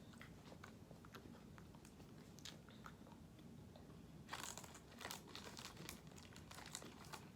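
Faint crunching and crinkling of a packaged cinnamon snack cake being eaten, scattered small crackles with a louder cluster about four and a half seconds in.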